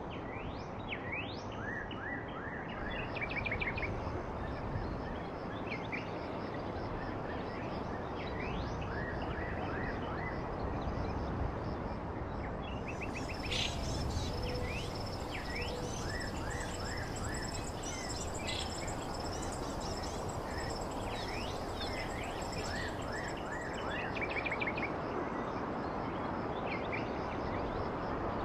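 Several small birds chirping, short quick up-and-down notes and brief rapid trills scattered all through, over a steady hiss of outdoor background noise. A thin, steady high tone joins for about ten seconds in the middle.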